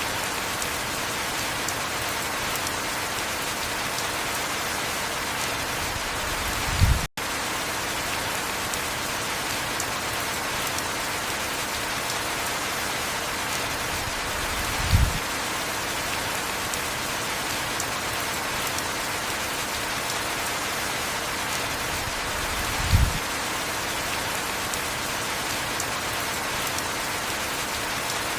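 Heavy rain falling in a steady, even hiss. Three short, dull low thumps come about eight seconds apart, and the sound briefly cuts out just after the first.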